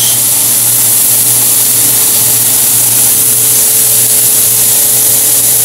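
Sliced mushrooms and onions sizzling steadily in a hot skillet, with a faint low hum underneath.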